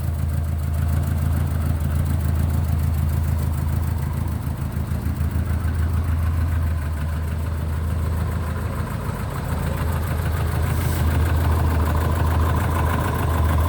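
Ford Escort Twin Cam's twin-cam engine idling steadily.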